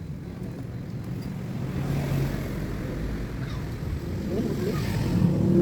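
Car engine running with a low rumble that grows louder toward the end.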